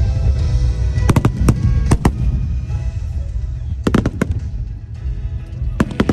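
Aerial fireworks display: a continuous deep rumble of shell bursts, with clusters of sharp crackling cracks about a second in, around two seconds, near four seconds and again near six seconds, over music.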